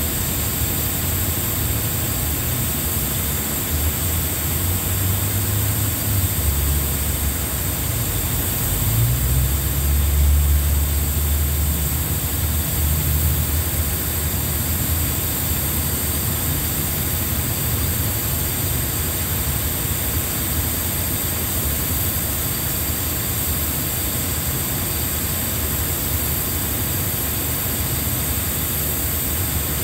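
Steady rumble and hiss of a diesel passenger train standing at the platform with its engines idling; the low rumble swells for several seconds near the start, strongest about ten seconds in.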